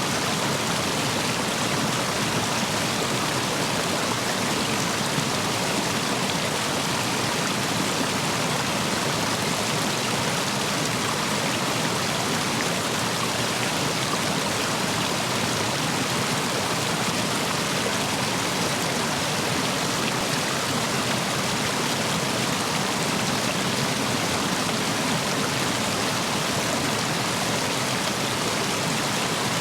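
Stream water rushing through and over a row of stepping stones, a steady, unbroken flow with a full volume of water after heavy rain.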